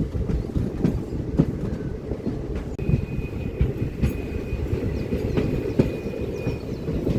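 Passenger train running, heard from aboard: a steady rumble with the wheels clicking over rail joints. A thin, steady high whine holds for about four seconds in the middle.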